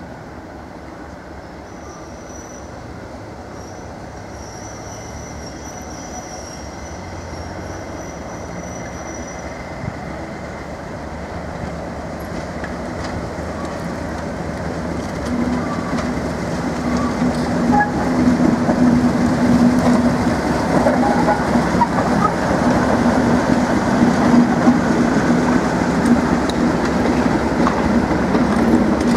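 A train approaching on the line, growing steadily louder over some twenty seconds. A steady low engine hum and the noise of wheels on the rails fill in as it nears.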